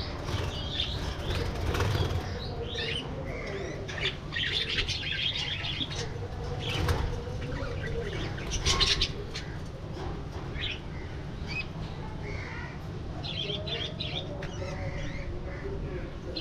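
A flock of budgerigars (parakeets) chirping in many short overlapping calls, with wings flapping as birds fly about the aviary.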